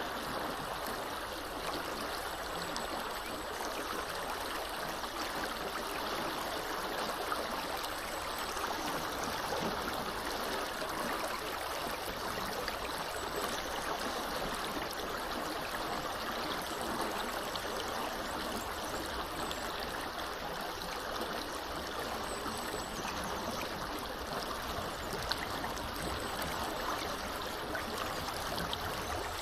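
Small river flowing steadily, a constant rush of water.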